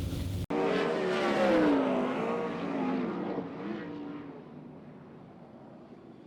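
Dirt-track race car engines passing at speed, several at once, their pitch falling as they go by and fade into the distance. The sound starts abruptly about half a second in and dies away within a few seconds.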